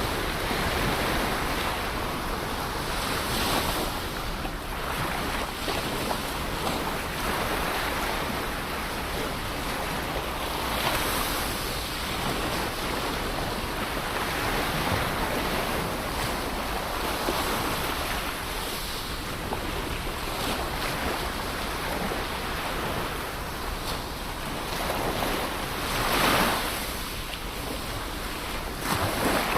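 Ocean waves washing onto a shore in a continuous rushing surf, with a few louder breaking waves, the strongest about 26 seconds in, and some wind on the microphone.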